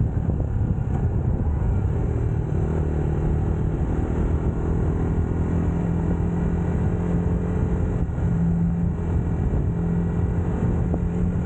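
UM Scrambler X motorcycle engine running at a steady cruise, its note holding nearly level with small changes in pitch, over low wind and road rumble.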